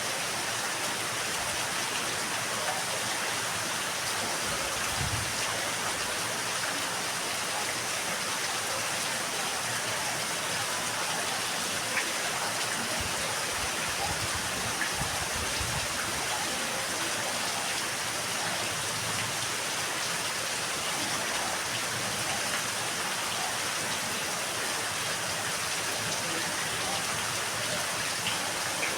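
Steady rain falling in a yard: an even, unbroken hiss, with a few single drop ticks standing out, one about twelve seconds in and one near the end.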